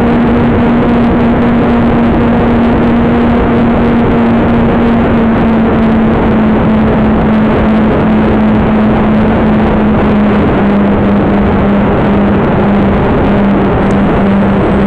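Strong wind buffeting the microphone, a loud continuous rush, with a steady low hum underneath that steps down slightly in pitch twice.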